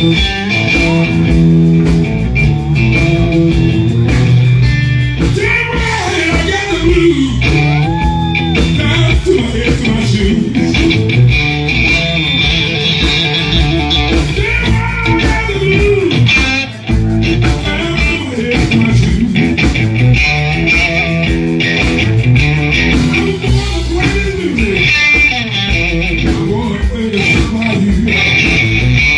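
Blues music led by guitar, played continuously, with bent notes around six to ten seconds in.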